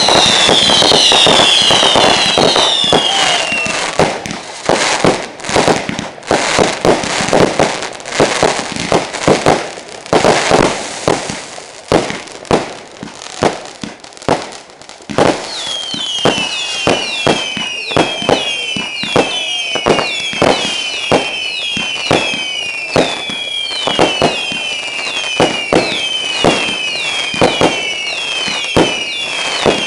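Fireworks going off: short whistles that fall in pitch, repeating quickly over the first few seconds, then a stretch of rapid, irregular bangs and cracks. About halfway in the falling whistles start again, roughly two a second, mixed with bangs to the end.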